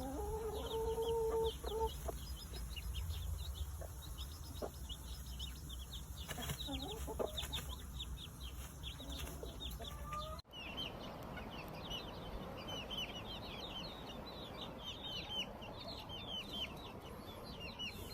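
A brood of chicks peeping, with many short, high, falling cheeps overlapping throughout. A longer, lower call lasts about a second and a half at the start, and the sound cuts off abruptly about ten seconds in, then the peeping continues.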